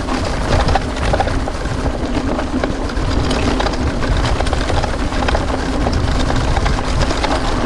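Mountain bike rolling fast over a rough dirt track: tyres on stones and ruts with a steady clatter and rattle from the bike, over a heavy low rumble.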